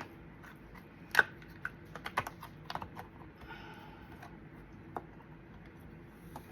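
Handling noise as a flexible silicone mold is turned inside out: irregular light clicks and taps, the sharpest about a second in, with a brief soft rustle around the middle.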